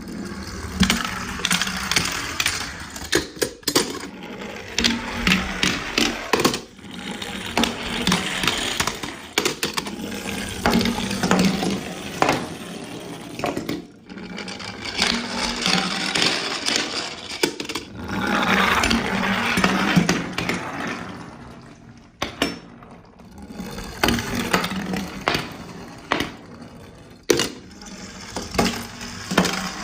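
Small die-cast toy cars rolling down a slide one run after another, each run a few seconds of rattling with sharp clicks and clatters as the cars knock, jump and land.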